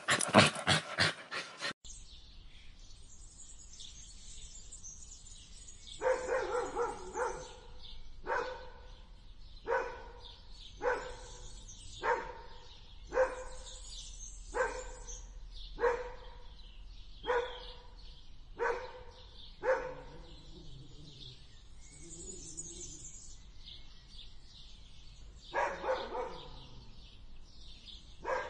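A dog growling loudly, cut off about two seconds in; then a dog barking in short single barks at a steady pace, roughly one every second and a bit, a dozen in a row, then a pause and a few more barks near the end, over a faint hiss.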